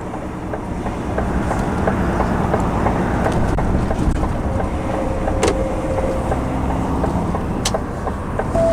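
Articulated lorry's engine and road noise heard from inside the cab while driving: a steady low rumble, with a few faint clicks and a short tone near the end.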